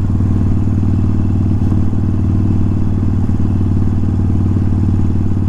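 Harley-Davidson Sportster's V-twin engine running steadily at a constant cruising speed.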